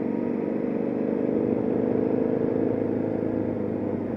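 Motorcycle engine running steadily at low speed on a slow track lap, heard from on board the bike, its level easing slightly near the end.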